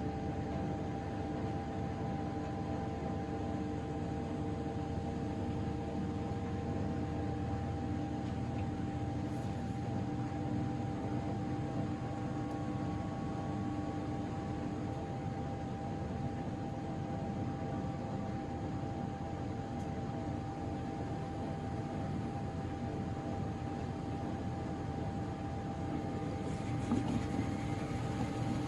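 Miele Novotronic W913 washing machine running its drain and spin after the second rinse: a steady motor whine over a low hum, with a brief louder rattle near the end.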